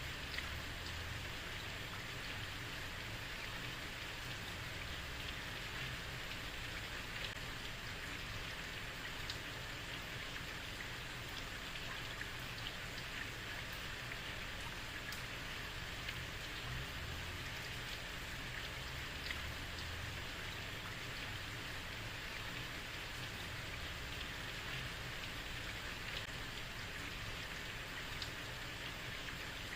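Heavy rain falling steadily on a street, an even hiss with scattered individual drop ticks.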